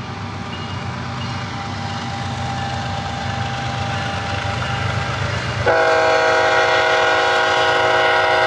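BNSF freight train's diesel locomotives rumbling past, growing louder, then the lead locomotive's air horn cuts in suddenly about five and a half seconds in and holds as a chord of several tones. The horn is a warning for the road crossing just up the line.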